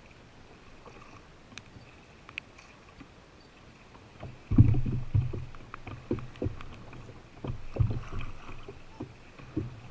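Paddling sounds from a canoe or kayak: loud knocks and bumps against the hull begin about halfway through over a low, steady hum.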